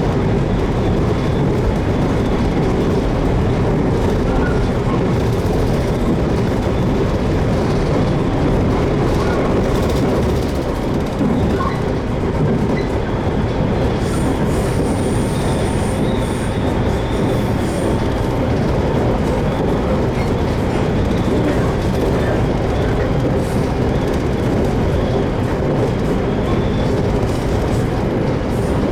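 JR Kyushu 813 series electric multiple unit running along the line, heard from inside the passenger car: a steady rumble of wheels on rail with some clickety-clack.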